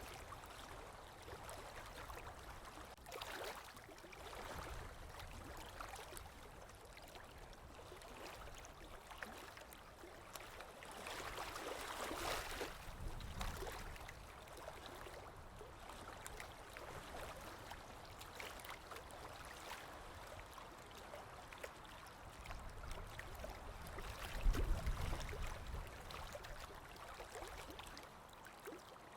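Sea waves washing in, a steady rush of water that swells three times, the last and loudest with a low rumble a few seconds before the end.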